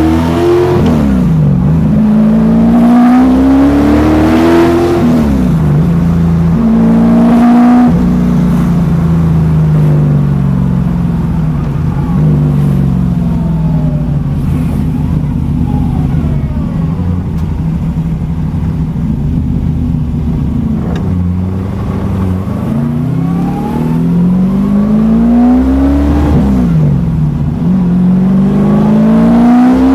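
Fuel-injected 447-cubic-inch Ford Windsor V8 with individual throttle bodies, pulling hard through the gears on the street. Its pitch climbs and then drops sharply at each upshift, settles into a steadier cruise for a stretch in the middle, then climbs through the gears again near the end.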